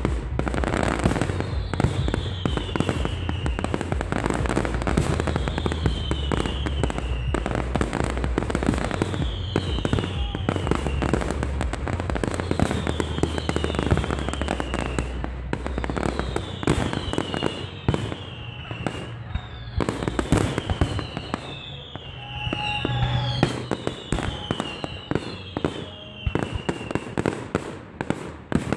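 Fireworks display: a dense, continuous barrage of bangs and crackling bursts, with short falling whistles repeating every second or two. The barrage thins a little in the last few seconds.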